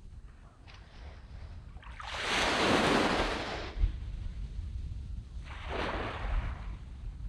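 Small waves breaking on a sandy beach: one wave washes in about two seconds in and fades, a smaller one follows near the end, with low wind rumble on the microphone.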